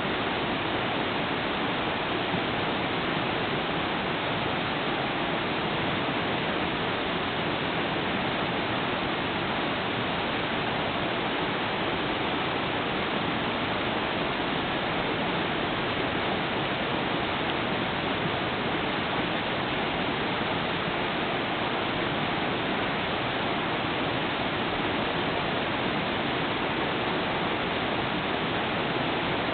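River flowing steadily: an even rushing of water.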